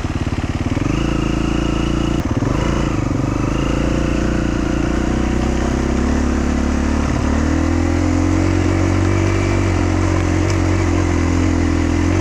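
Dual-sport motorcycle engine running on an off-road trail. It pulses at low revs, picks up about a second in, then pulls steadily under load, with the pitch climbing slightly later on.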